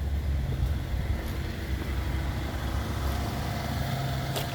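A car engine idling with a steady low rumble, and a single sharp click near the end.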